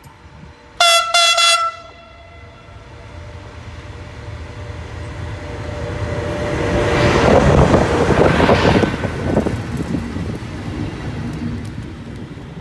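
FS E652 electric locomotive sounding two short horn toots about a second in, then running past with its train: the rolling rumble and wheel clatter swell to a peak and fade away.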